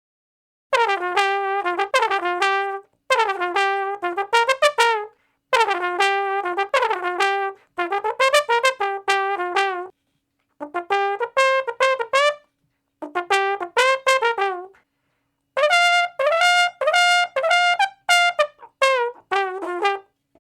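Solo trumpet playing about eight short phrases of quick separate notes, some slurred with small pitch slides, each phrase followed by a brief silence.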